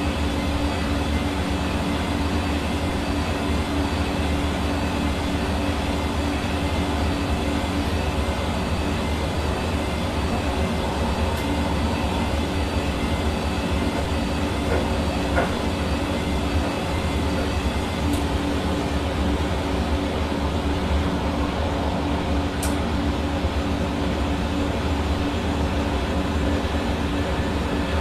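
Hair dryer running steadily: a constant rush of blown air with a steady motor hum under it.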